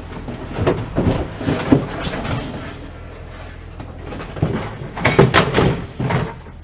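Knocks and clunks of gear and materials being moved and set down, in two bursts: one about a second in and another around five seconds in, over a steady low hum.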